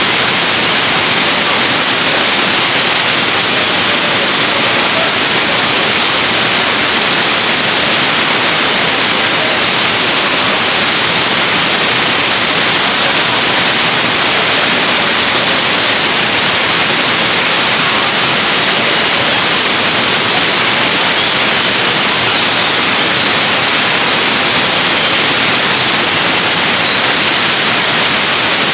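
Waterfall: a steady, loud rush of falling water, an even hiss with no breaks or changes.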